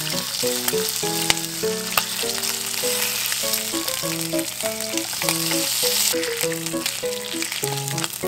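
Bacon and an egg sizzling in a frying pan, with a few sharp clicks of tongs against the pan as the bacon strips are lifted out; the sizzle thins about six seconds in. Background music plays over it.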